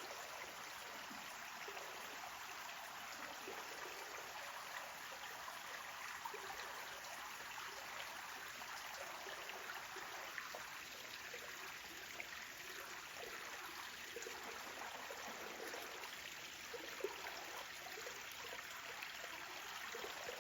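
Small landscape waterfall in a garden water feature, water cascading and splashing in a steady stream.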